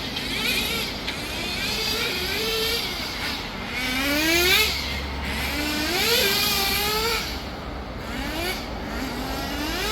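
Small nitro engine of an RC touring car revving, its high whine rising in pitch about four times as the car accelerates and falling back in between.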